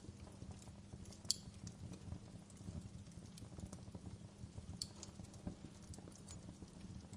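Wood fire crackling in a fireplace: a dense run of soft low pops with a few sharper snaps, the clearest just over a second in and another near five seconds.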